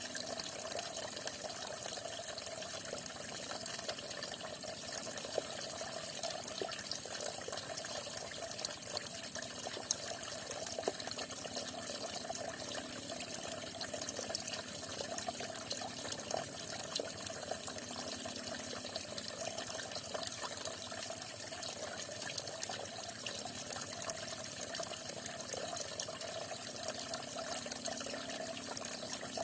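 Falling water, a steady unbroken splashing flow that holds the same level throughout.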